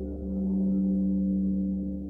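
Meditation music of sustained singing-bowl-like ringing tones over a low drone. The tones swell up just after the start and fade away near the end, with no audible strike.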